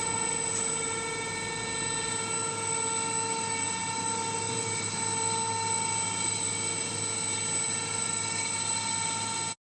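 A machine running at a constant speed, a steady whine of several pitches held without change over a mechanical hum. It starts and cuts off abruptly.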